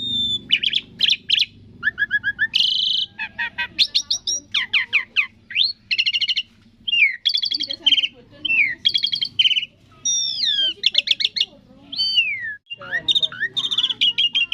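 Asian pied starling (jalak suren) singing a fast, varied song: clear whistles sliding up and down, quick rattling trills and chattering phrases, broken by short pauses.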